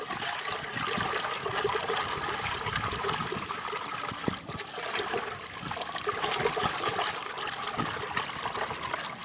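Water running and trickling.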